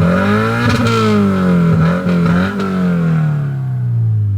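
2013 Subaru BRZ's 2.0-litre flat-four engine revving through an exhaust fitted with an electric cutout that bypasses the muffler. The pitch climbs and falls several times, then slides down near the end.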